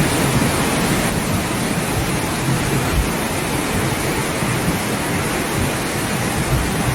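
Loud, steady rushing of water with a deep rumble underneath, typical of heavy flash-flood water and rain; the high hiss thins slightly about a second in.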